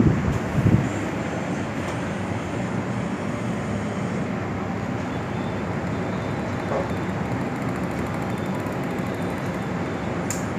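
Arge Max 50 cm wall fan running steadily, an even rush of moving air. There are a few loud low bumps in the first second.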